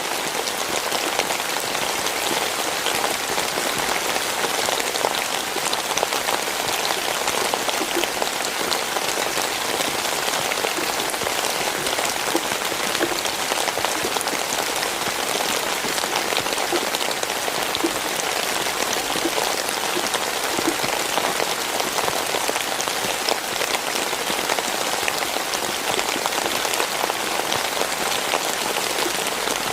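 Heavy rain falling steadily onto hard surfaces, a dense even hiss of drops with small ticks of individual drops throughout.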